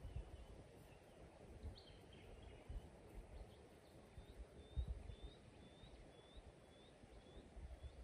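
Faint birdsong at dawn: a bird repeating a short, high chirp about twice a second through the latter half, with a few other calls earlier and occasional low thuds.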